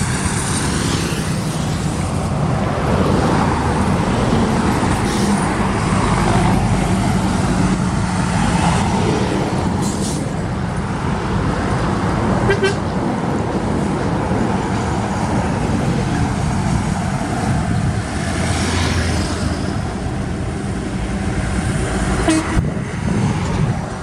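Road vehicle noise: an engine running steadily with tyre and traffic rumble, and a few short clicks or knocks.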